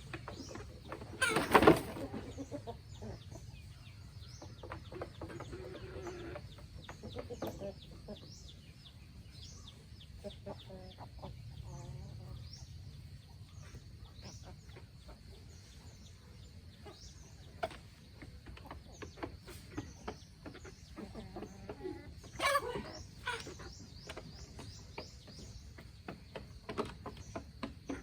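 Free-range chickens clucking, with a loud squawk about a second and a half in and another around 22 s, and many short high chirps throughout.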